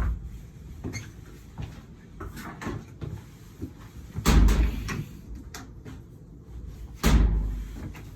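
A door swinging and thudding shut twice, about four seconds in and again near the end, with smaller knocks and rattles between: a door stop that will not hold the door open.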